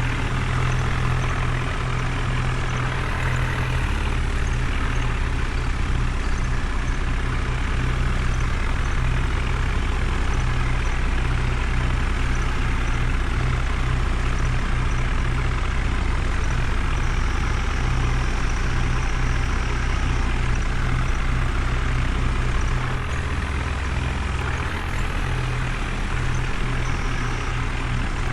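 Heavy diesel engine running steadily with a deep, even hum; its low note shifts slightly a few seconds in and again near the end.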